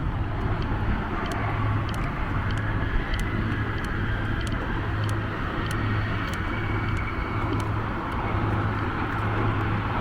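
Wreck-cutting machinery running: a steady drone with a low hum that swells and fades about once a second, and frequent sharp ticks. This is the cutting chain sawing through the Golden Ray's hull, a little higher-pitched in the cutting today.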